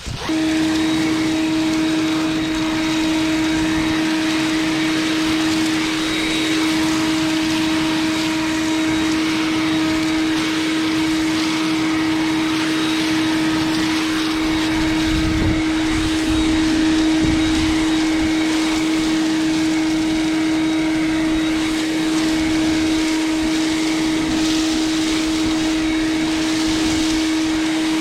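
Motor-driven leaf-clearing fan machine running steadily, a constant whine over a loud rush of air.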